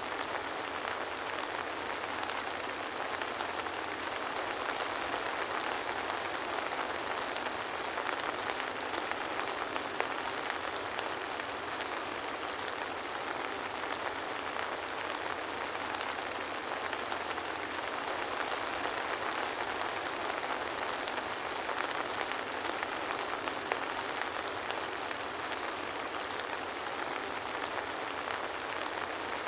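Steady soft rain pattering on a surface, with fine drop ticks and no thunder.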